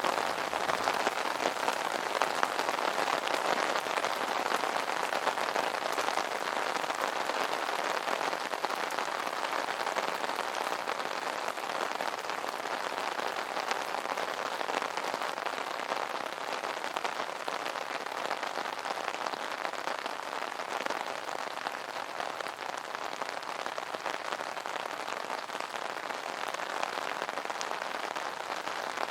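Rain pattering steadily on an umbrella canopy, a dense spatter of drops without a break.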